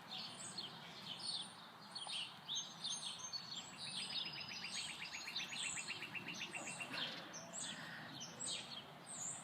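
Small birds chirping over and over, with a fast, even trill of about nine notes a second through the middle.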